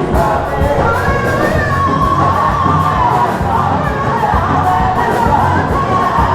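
Congregation singing praise music with a steady beat, with crowd voices and cheering mixed in.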